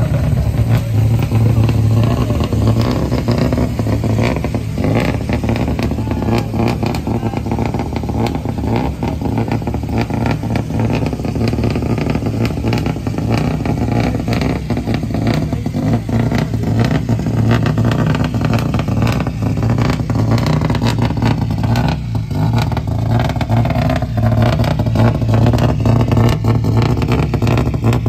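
Car engine running steadily with a strong low tone, holding an even level with no clear revving.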